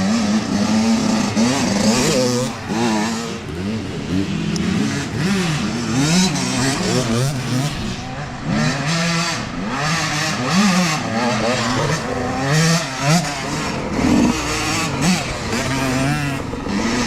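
Several youth dirt bikes racing by, their engines revving up and down again and again as the riders work the throttle, the pitches overlapping and rising and falling.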